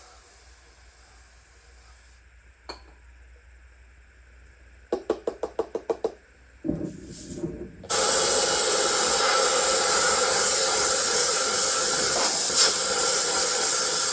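A quick run of about eight knocks, then a loud, steady spraying hiss for about six seconds that cuts off near the end, as from a spray nozzle being used to clean the washer.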